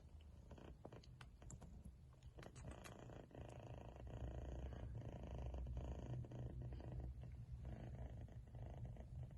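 Persian kitten purring steadily in breath-long phases, louder from about four seconds in, with a few light clicks in the first couple of seconds.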